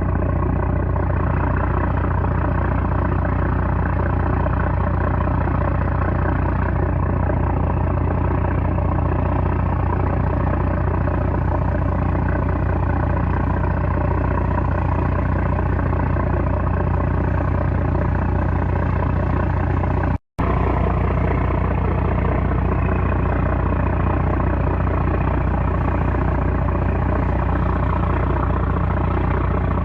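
A small 330-horsepower trawler's diesel engine running steadily, a constant low drone with no change in speed. The sound cuts out completely for a split second about twenty seconds in.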